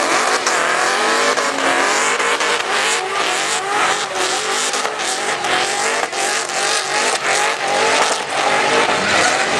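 Muscle car engine revving hard, its pitch climbing again and again, with tyres squealing through a burnout.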